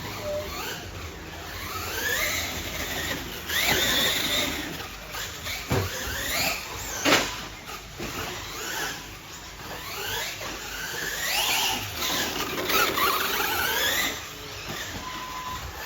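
Electric motors of radio-controlled racing trucks whining, the pitch rising again and again as the trucks accelerate out of corners. A sharp knock about seven seconds in, with a smaller one just before it.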